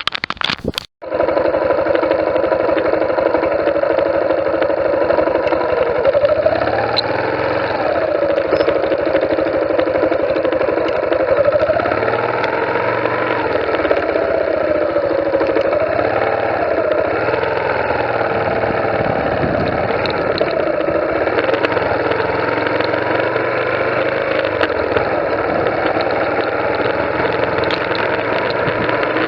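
Motorcycle engine running, its pitch rising and falling gently with the throttle. It comes in suddenly about a second in.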